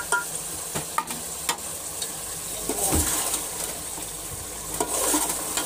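Chicken and masala sizzling in oil in a metal pot while a metal slotted spoon stirs it. The spoon scrapes and clinks against the pot every second or two.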